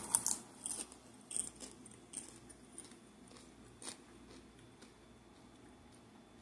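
Kettle corn being chewed close to the microphone: faint, irregular crunches and mouth clicks, several in the first couple of seconds, one stronger crunch a little before four seconds in, then dying away.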